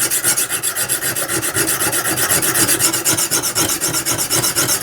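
Coarse oiled Lansky sharpening stone stroked quickly back and forth along the steel edge of a saw blade, a rapid, steady scraping of stone on metal as a new bevel is ground in.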